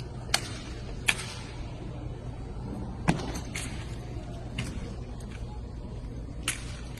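Sharp slaps and knocks of a drill rifle being caught and struck against the hands during exhibition drill, about six of them spaced irregularly, the heaviest a thump about three seconds in, over a steady low hum.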